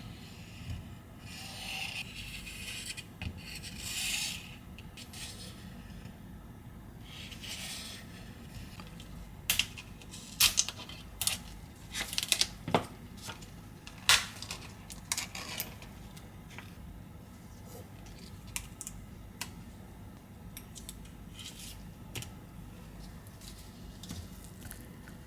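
Small hand tools working on smartphone parts. Soft rustling and peeling comes first, then a run of sharp metallic clicks and taps around the middle, then a few light taps.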